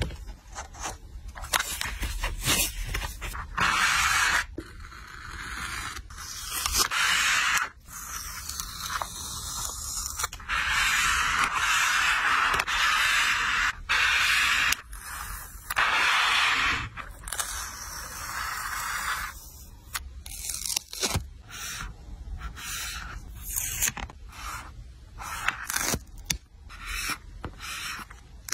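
Close-up scraping and rustling of paper and stationery while a journal collage is being made. Long sustained stretches of scraping run through the first two-thirds, and scattered short clicks and taps follow near the end.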